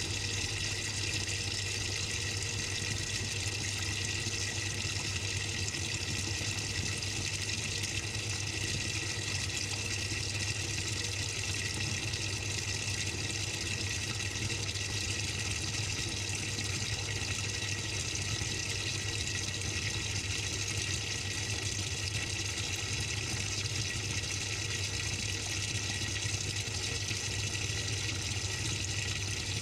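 Water running steadily inside the drum of a Samsung 6.5 kg top-load washing machine, heard from within the drum, over a steady low machine hum.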